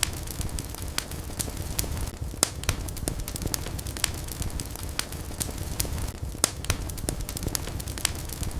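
Wood fire burning in a fireplace: a steady low rumble of flames with sharp pops and crackles at irregular intervals.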